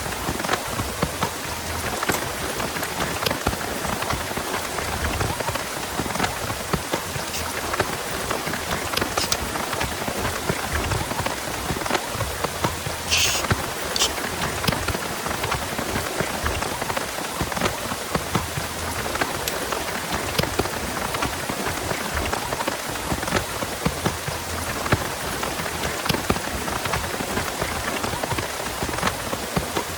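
Heavy rain falling steadily, with many close drops ticking individually. A short, sharp high hiss or rustle comes about halfway through.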